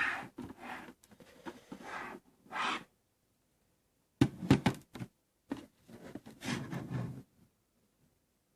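Handling noise as a small LED TV-fireplace ornament is turned over and moved around: rustling and scraping, then a few sharp knocks a little over four seconds in, followed by more rustling.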